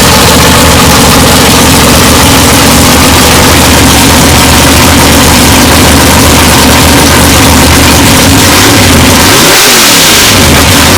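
Pontiac drag race car's engine idling loudly and steadily, with one quick throttle blip near the end where the pitch rises and falls back.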